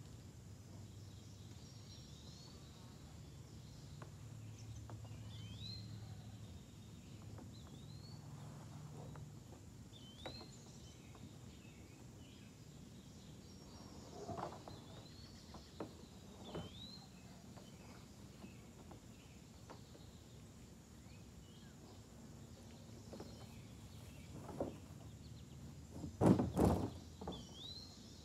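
A bird repeatedly gives a short whistled note that swoops up, with a gap of a few seconds between calls, over a quiet outdoor background. A few soft knocks come from the middle onward, and the loudest cluster of knocks comes near the end.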